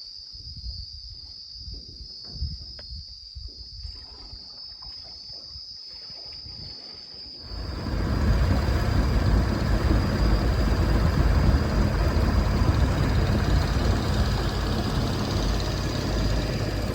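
Insects buzzing with one steady high drone. About seven seconds in, it cuts abruptly to a boat's engine running loudly with a rushing noise.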